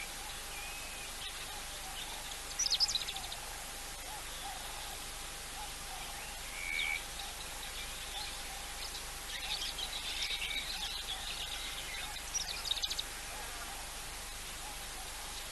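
Wild birds calling now and then over a steady outdoor hiss: a few quick trills and short single whistles, with a faint steady hum beneath.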